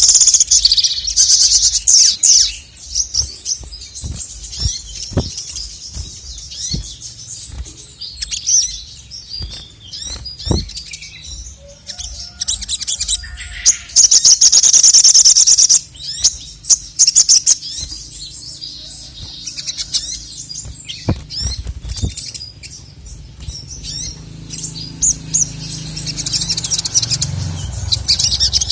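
Male crimson sunbird (sogok ontong) singing. Three loud bursts of rapid, high trilling come near the start, around the middle and near the end, with scattered chirps and light clicks between them.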